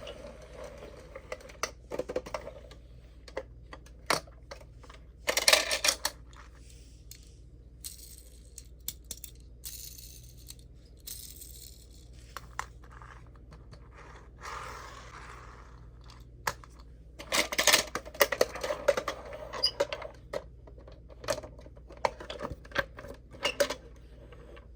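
Die-cast toy minicars being handled: scattered sharp clicks and light metal-and-plastic clatter. There are denser bursts of clattering about five seconds in and again from about seventeen seconds on.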